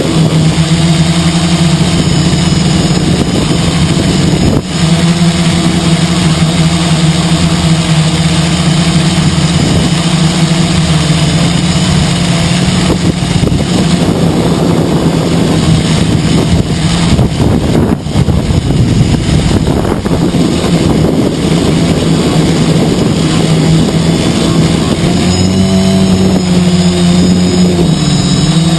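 Quadcopter's four 2212 1000KV brushless motors and 10-inch carbon propellers droning steadily, recorded from the onboard GoPro, with strong gusty wind rushing over the microphone. The motor pitch steps up and wavers near the end.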